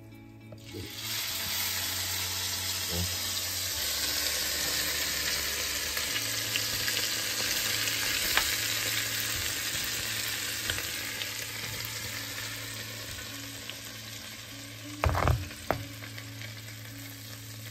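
Minci, a crumbly local curd cheese, sizzling in hot butter in a pan, starting about a second in as it goes into the fat and easing off in the second half. A couple of sharp knocks near the end.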